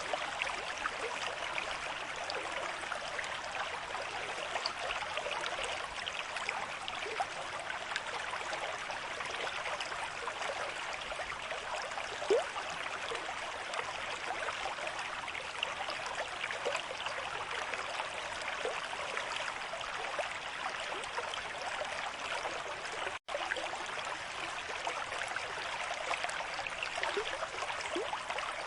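River stream at moderate flow, water rushing and burbling steadily. The sound cuts out for an instant about two-thirds of the way through.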